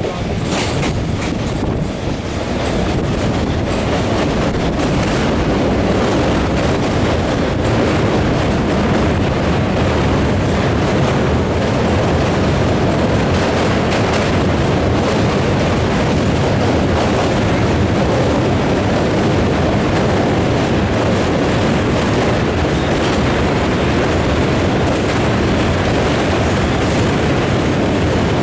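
Passenger train running along the line, heard from on board: a steady loud rumble of wheels on the rails with a rushing noise.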